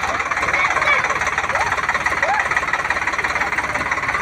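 Swaraj tractor's diesel engine running loud and hard, with a dense, rapid, even knocking of its firing.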